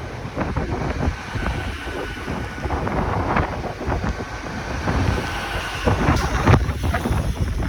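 Train moving through the station with a low rumble, and wind buffeting the microphone.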